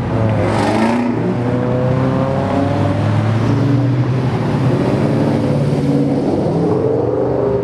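A car's engine running and accelerating as it pulls away, its pitch climbing slowly and then climbing again later.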